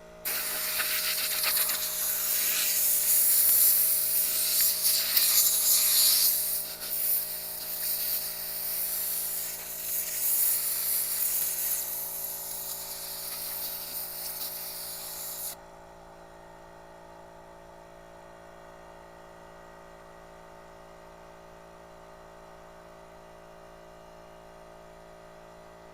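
Compressed-air blowgun nozzle blasting air in one long, uneven hiss, drying soapy water off a tire bead so it can be rechecked for leaks; the hiss cuts off suddenly about fifteen seconds in. A steady hum runs underneath.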